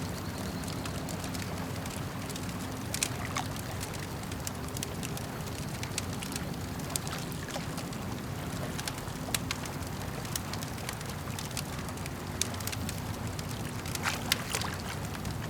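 Campfire crackling, with irregular sharp pops and snaps of burning wood, a few louder ones scattered through, over a steady low wash of lake water.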